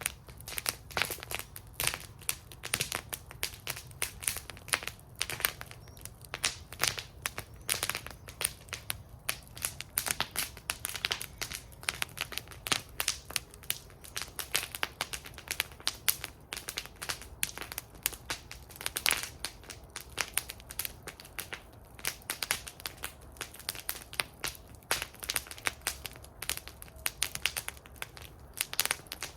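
Wood fire burning in a fire bowl, crackling and popping continuously with irregular sharp snaps over a low steady rumble of the flames.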